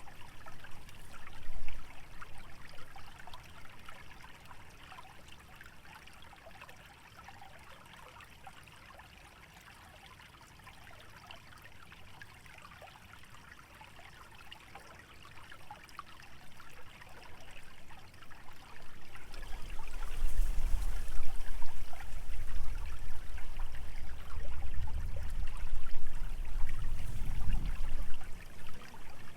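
Small stream trickling steadily through a wetland. About two-thirds of the way in, wind picks up, rustling the dry dormant vegetation and buffeting the microphone with a loud low rumble that is the loudest sound for the rest of the stretch.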